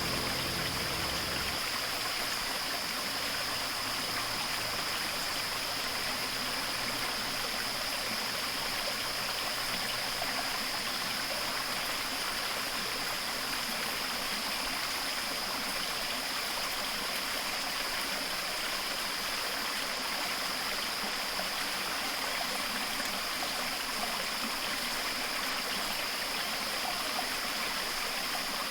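Running stream water: a steady, even rushing hiss. Low background music fades out about a second and a half in.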